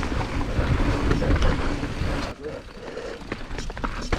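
Deviate Highlander mountain bike descending a dirt trail: tyres rumbling over the ground with the bike rattling, and wind buffeting the helmet-mounted camera microphone. A few sharp knocks come near the end as the bike hits bumps.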